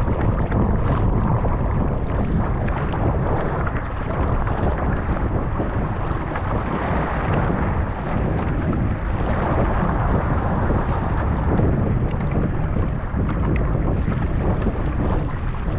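Strong wind buffeting the microphone over rushing water and waves, a loud, steady rumble with no letup.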